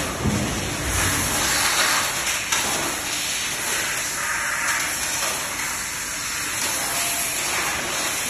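Industrial engine-block washing machine running: a steady rushing hiss of high-pressure water spray jets, swelling and easing slightly.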